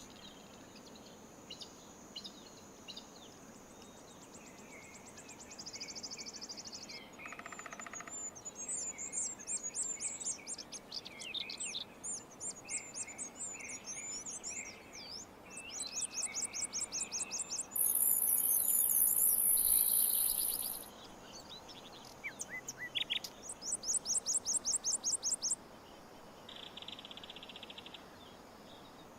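Several wild birds singing and chirping, with overlapping quick high-pitched trills and chirps. A loud, very high buzzing trill lasts about three seconds, about two-thirds of the way in.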